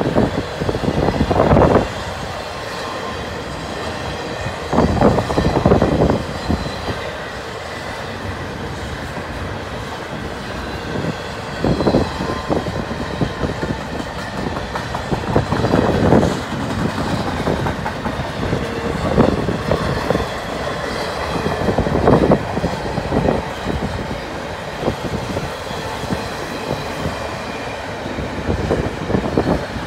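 Double-stack intermodal freight train's well cars rolling past, a steady rumble of wheels on rail broken every few seconds by clusters of clattering knocks as wheel sets cross the rail joints.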